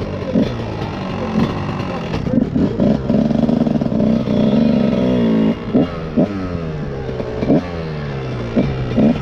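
Motorcycle engine under way, revving up and dropping back several times as the rider works the throttle and gears, with a stretch of steady high revs in the middle.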